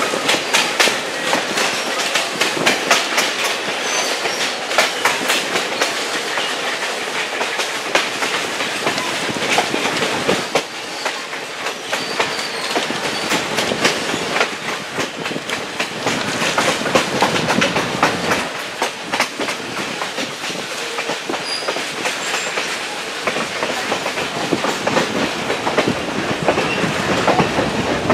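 Passenger train cars rolling along the track, heard close by from an open coach side. The wheels clatter over the rail joints with a steady run of clicks and rattles.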